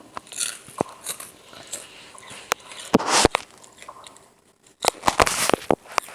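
Ceiling fan parts being handled and broken apart: irregular clicks and knocks of metal and plastic, with two louder crunching bursts, about three seconds in and about five seconds in.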